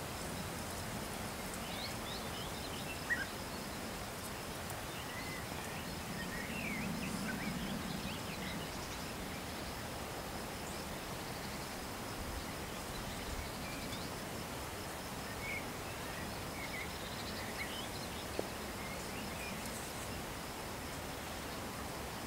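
Outdoor ambience with faint, short bird calls scattered throughout, over a steady high insect trill.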